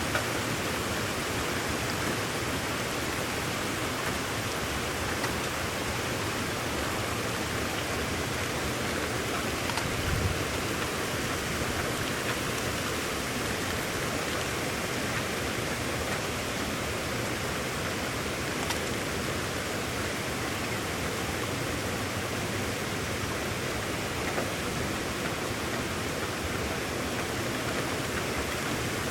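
Steady brisk rain falling in an even hiss, with a brief low thump about ten seconds in.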